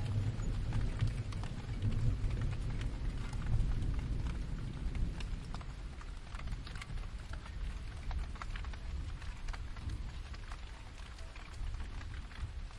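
Steady rain with scattered distinct drops, under a low distant thunder rumble that is strongest in the first few seconds and slowly fades.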